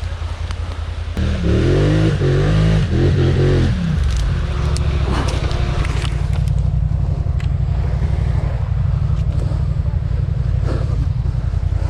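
ATV engine revving in a few rising and falling bursts about a second in, then running steadily under load.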